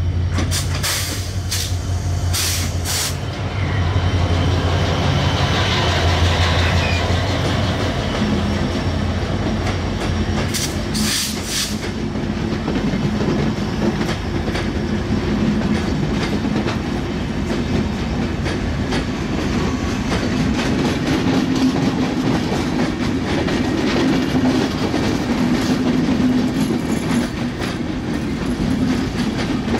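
Passenger train passing close by: a diesel locomotive engine's low drone for the first dozen seconds, then coaches rolling past with a steady wheel rumble and clickety-clack over rail joints. A few sharp clanks come near the start and again about eleven seconds in.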